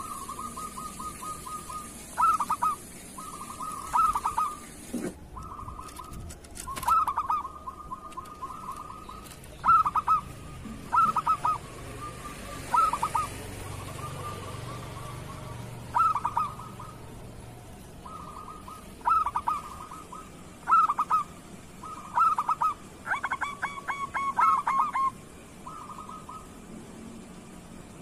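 Zebra doves (perkutut) cooing: a soft, steady trill of rapid coos runs underneath, while louder phrases of quick staccato coos come every second or two, some overlapping near the end.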